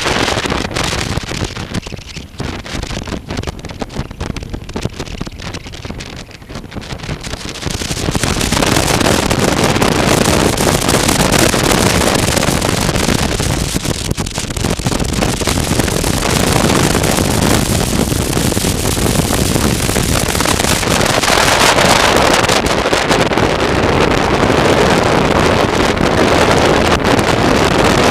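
Wind rushing over the microphone on a moving motorcycle, with the bike's running underneath. It grows louder about eight seconds in and stays loud.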